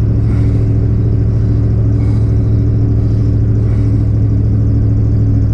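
Truck engine idling steadily just after a cold start at about 10 below zero, heard from inside the cab.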